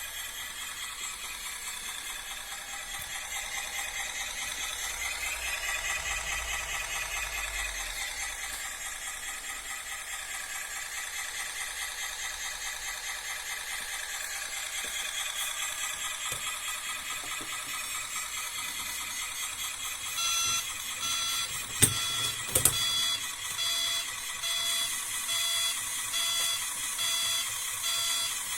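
RC scale Caterpillar bulldozer model's drive whining steadily, rising in pitch about five seconds in, then settling. About two-thirds of the way through a steady repeating beep begins, with two sharp knocks shortly after it starts.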